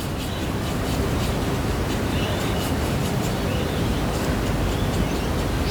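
Steady, even rushing noise of room background, with a few faint soft ticks.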